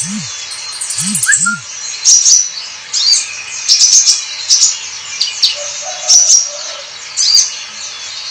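A sunbird, the 'kolibri ninja', singing: a fast high twittering trill at first, then a run of short, sharp, high chirps and sweeping notes, one or two a second.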